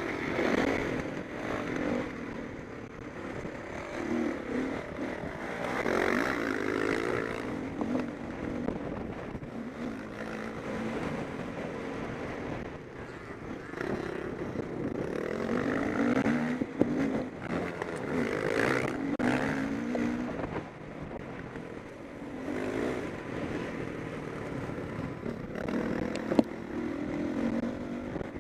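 Several motocross bikes racing, their engines revving hard and easing off through the gears, the note rising and falling as bikes come closer and move away.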